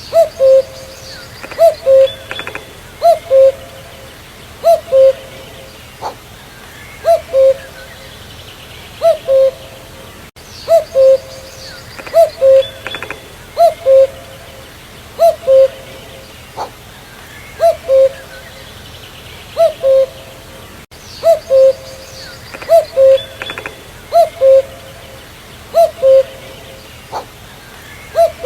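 Common cuckoo calling its two-note "cuck-oo", a higher note dropping to a lower one, repeated over and over about once a second. Fainter chirps of other small birds sound behind it.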